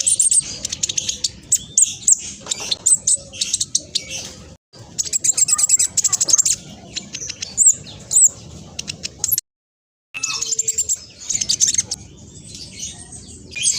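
Black sunbird singing a fast, high-pitched chattering song of rapid twitters and trills, with short pauses between bursts; the song cuts out completely for under a second about nine and a half seconds in.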